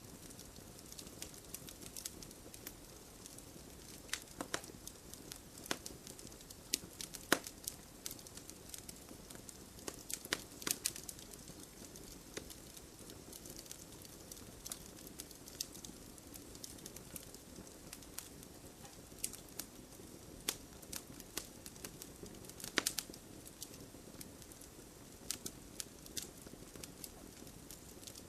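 Wood fire crackling: irregular sharp pops and snaps over a steady low hiss of burning, with a few louder pops scattered through, such as about seven seconds in and near twenty-three seconds.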